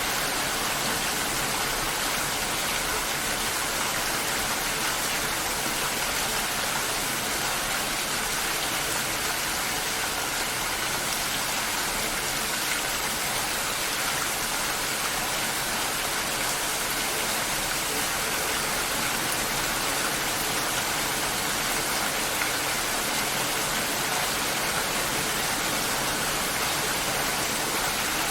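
Steady rain: an even hiss of falling rain and raindrops on surfaces, with no thunder or single strikes standing out.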